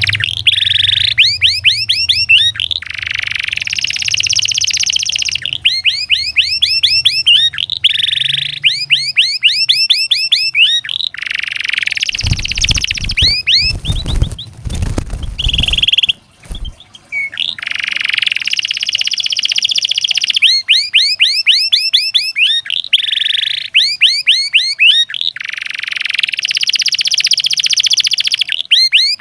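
Domestic canary singing a continuous song: long rolled, buzzy trills alternating with rapid runs of repeated sweeping notes. About halfway through, a loud rough noise briefly covers the song, then the song resumes.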